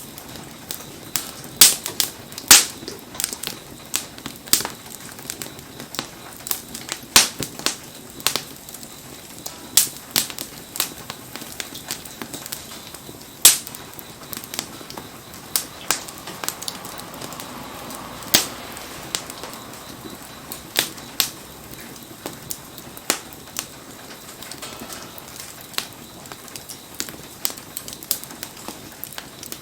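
Wood campfire crackling, with irregular sharp pops, some loud, scattered throughout, over a steady hiss of falling rain.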